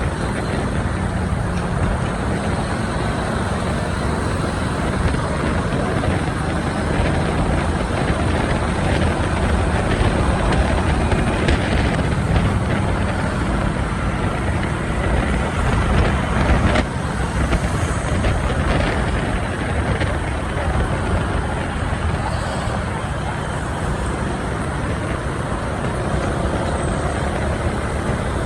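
Steady road noise from riding a motorbike through city traffic: the bike's engine and tyres with the surrounding traffic, heaviest in the low end.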